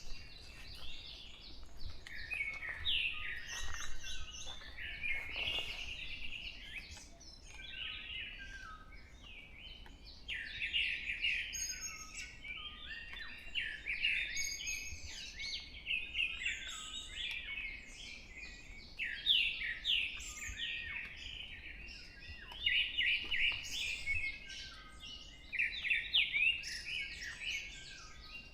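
Several songbirds singing at once in a forest dawn chorus: overlapping high chirps and quick repeated-note phrases, a new phrase every second or two.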